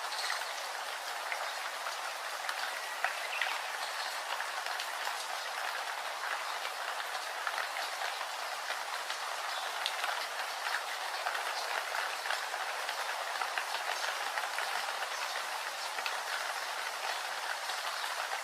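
Steady rain falling, a dense even hiss dotted with the ticks of individual drops.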